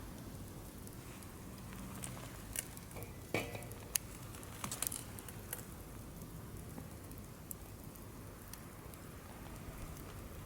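Wood fire in a fire-pit stand crackling, freshly stoked with firewood: a few sharp pops and snaps, bunched between about two and six seconds in, over a low steady hiss.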